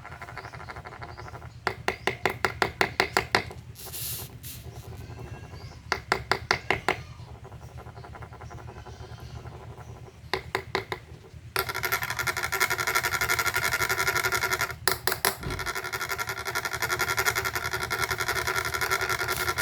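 Three bursts of rapid, evenly spaced wooden rasping strokes, each lasting a second or two. From a little past halfway a steady, louder music-like sound takes over.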